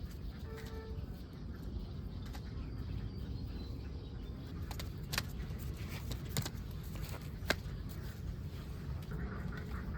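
A steady low rumble with a few sharp clicks in the middle, and ducks beginning to call faintly near the end.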